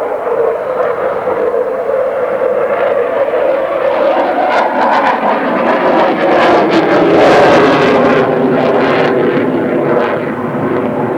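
Dassault Rafale fighter's twin jet engines roaring in a flying display pass, swelling to a crackling peak about two-thirds of the way through, then easing off.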